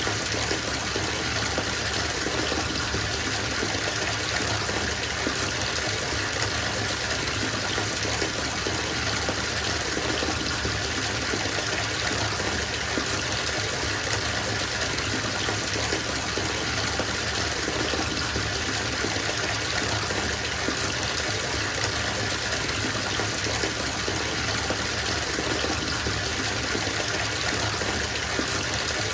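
Bathtub filling from the tap: a steady stream of water gushing into the tub, an even, unchanging splashing rush.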